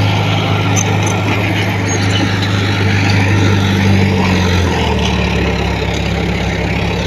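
Heavy diesel engine running steadily, its pitch dropping a step about two-thirds of the way through as the engine slows.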